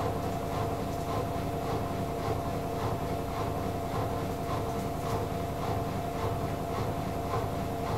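AEG Lavamat L88489FL washing machine running, its drum turning with a steady motor hum and a soft whoosh repeating about two to three times a second.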